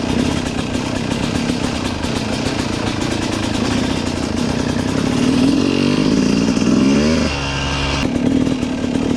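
Yamaha YZ250 two-stroke single-cylinder dirt bike engine running under throttle while being ridden. The revs climb sharply about five and a half seconds in, then drop off suddenly just past seven seconds before picking up again.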